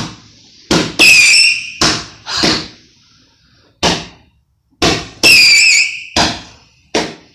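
Multi-shot cake firework firing: about ten sharp bangs at uneven intervals, some trailed by a high whistle lasting about a second.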